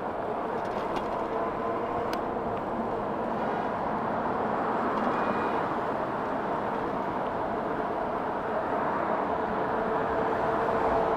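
Steady wind and tyre rush from riding a 60-volt electric bike on a city road, with a faint steady hum running underneath.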